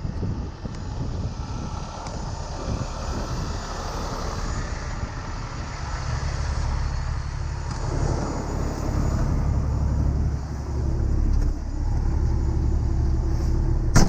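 Tow truck's engine running as the truck drives, a steady low rumble that grows louder about six seconds in and again about two seconds later. A sharp click comes at the very end.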